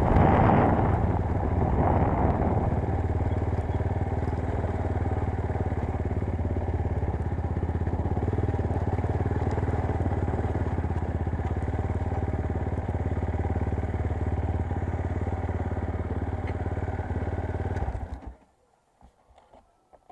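Motorcycle engine idling steadily, a little louder in the first couple of seconds, then stopping abruptly near the end.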